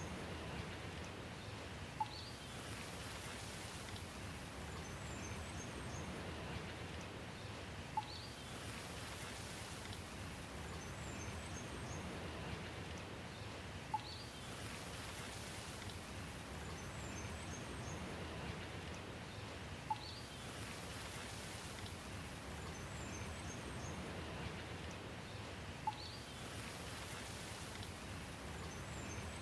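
Steady rain, with faint high bird chirps and a brief sharp tick about every six seconds, as a short loop repeats.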